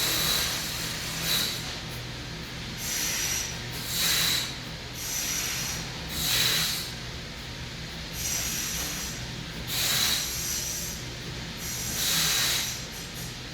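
Breathing through the nose, a hissing breath every second or two in a pranayama exercise, over a steady low hum.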